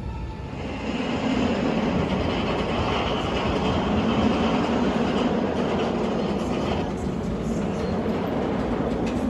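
Roller coaster train running along its steel track: a steady rattling rumble that swells about a second in and carries on.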